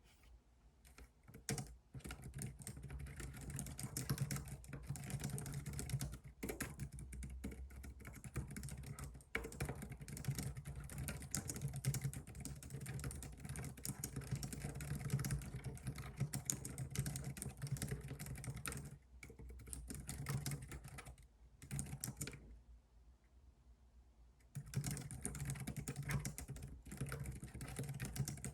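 Typing on a computer keyboard: fast runs of key clicks. They break off briefly a little past halfway, and again for a couple of seconds near the end, before starting up again.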